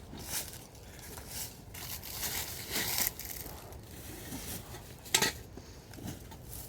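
Rustling and crunching handling noises in short bursts, with one sharp knock or clatter about five seconds in.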